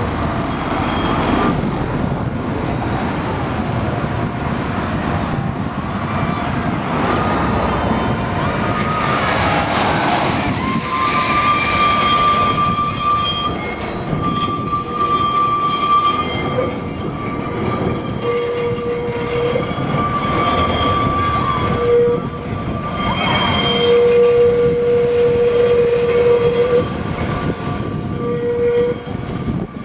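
A tram running on rails, with steady rumble and high squealing tones from its wheels that come and go through the second half.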